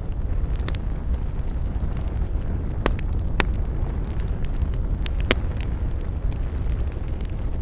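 Wood fire burning in a fireplace: a steady low rumble of flames with scattered sharp crackles and pops, the loudest few about three and five seconds in.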